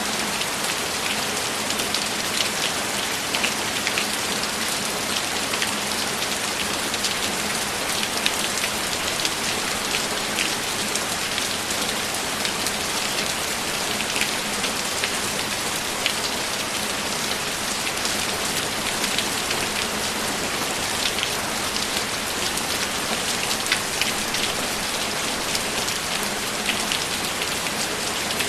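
Steady heavy rain falling on a surface, a dense even hiss with many individual drops pattering through it.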